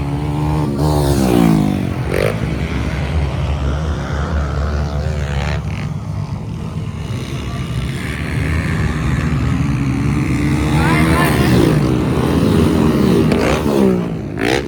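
Motocross bikes racing past, their engines revving up and down. One bike goes by about a second in, and louder passes come over the last few seconds.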